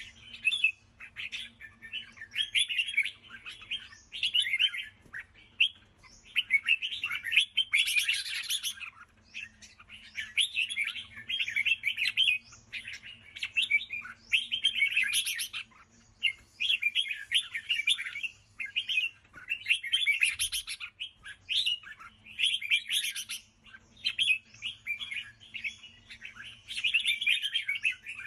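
Red-whiskered bulbul singing its rapid chattering song in phrases of about a second each, one after another with short pauses. A faint steady hum runs underneath.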